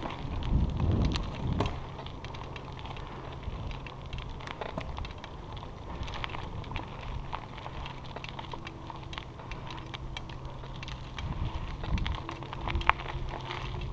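Bicycle tyres rolling over a rough trail surface: a steady crackle with many scattered sharp clicks. Gusts of wind buffet the microphone about a second in and again near the end.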